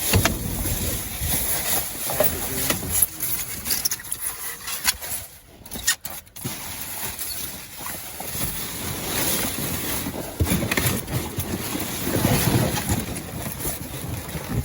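Wind buffeting the microphone in uneven gusts, with a brief lull about five to six seconds in.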